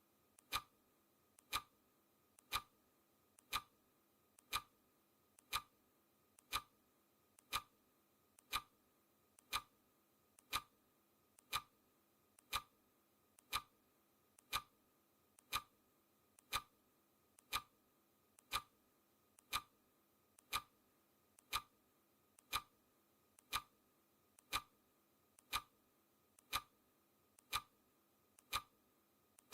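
Clock ticking sound effect counting off the seconds of a countdown timer: one sharp tick every second, evenly spaced.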